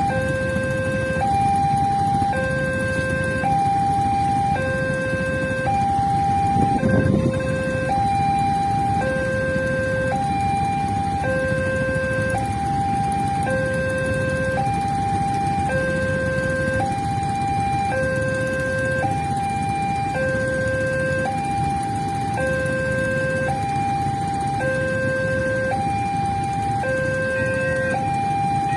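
Railway level-crossing warning alarm sounding steadily, alternating between a low and a high tone about once a second, which signals that the gates are closing or closed for an approaching train. A steady low rumble runs underneath, swelling briefly about seven seconds in.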